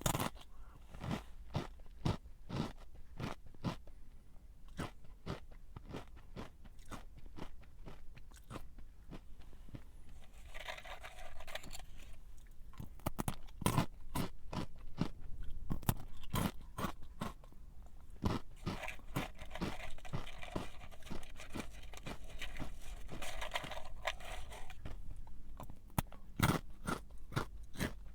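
Close-up crunching and chewing of a crunchy snack: many sharp, irregular crunches as it is bitten and chewed. Twice, about ten seconds in and again around the middle of the second half, a steadier scratchy noise runs for a second or a few seconds.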